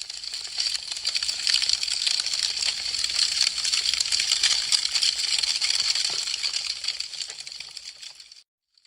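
Wood fire crackling: a dense, irregular stream of small sharp pops and snaps. It swells in at the start and fades out near the end.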